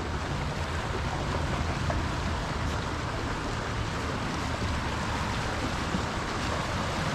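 Steady rush of flowing river water, with wind buffeting the microphone as a low rumble.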